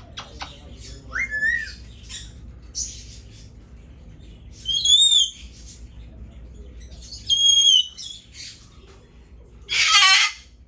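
Parrot calling: a few short chirps, then three loud shrill calls about two and a half seconds apart, the last a harsh squawk.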